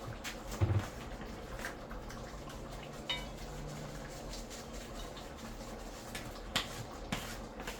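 Scattered light clinks and knocks of kitchen utensils and containers being handled, a handful of separate taps over a faint steady hum.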